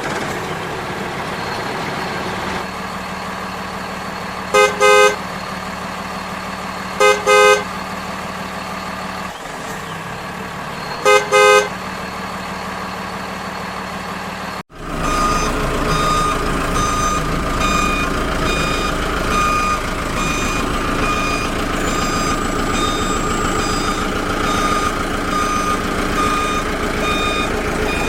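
Truck engine running steadily, with the horn sounding a quick double toot three times. After an abrupt cut about halfway, a louder steady whine with evenly repeating reversing beeps, a little over one a second.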